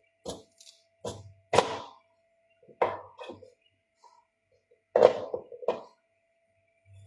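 Knife chopping on a cutting board: about seven sharp, irregular knocks roughly a second apart, over a faint steady hum.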